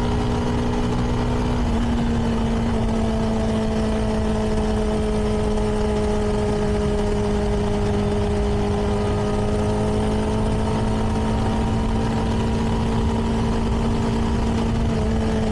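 A CFMoto 300NK's single-cylinder engine through its stock exhaust, running at steady cruising revs under a rush of wind. The engine note rises slightly about two seconds in, then holds nearly level.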